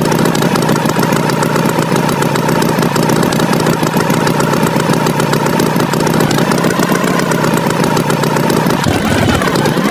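Tractor engine sound effect running steadily, its pitch dipping and rising again near the end.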